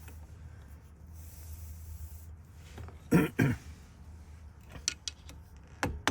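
A short cough-like noise about halfway through, then a few light, sharp taps near the end as a small hammer starts working the cap off a Ford lock cylinder, over a steady low hum.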